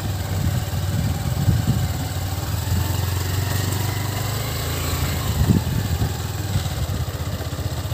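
Motorcycle engine running at a steady low speed, with a few short knocks and rattles over rough ground, the loudest about five and a half seconds in.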